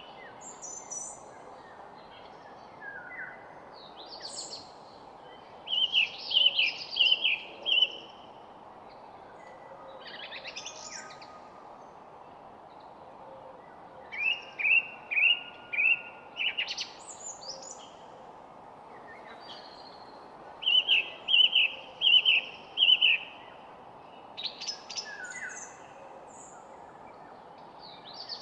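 Wild birds singing: one bird repeats a phrase of four or five short, even notes about every seven or eight seconds, with other birds' chirps in between, over a steady background hiss.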